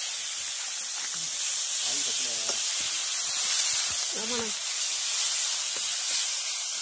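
Onions, tomatoes and green chilli sizzling in hot oil in a wok over a wood fire: a steady frying hiss, stirred with a metal ladle.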